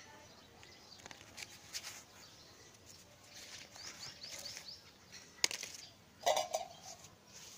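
Small birds chirping in the background, with a quick run of about five high chirps a few seconds in. A sharp click comes shortly after, followed by a louder short sound about a second before the end.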